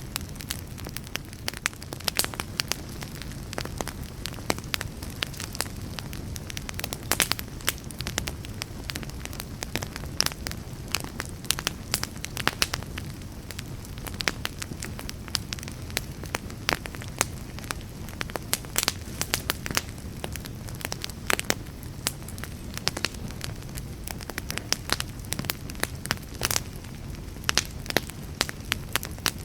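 Wood fire burning with a low steady rumble and frequent sharp, irregular crackles and pops.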